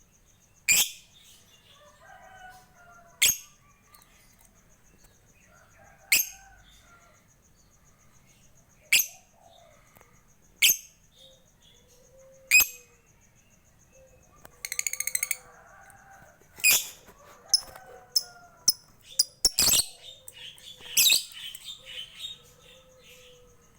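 A lovebird calling: sharp, loud single chirps every two to three seconds with soft warbling chatter between them. About a third of the way through it gives a fast, typing-like rattle of clicks (the 'ngetik' call), and the calls come thicker and faster in the last third.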